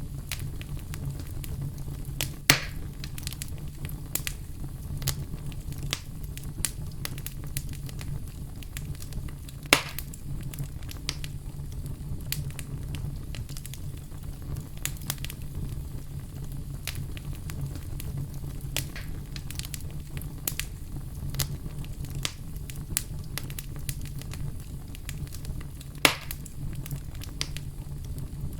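Wood fire crackling: a steady low rumble of flames under a constant scatter of small crackles, with three louder pops spread through it.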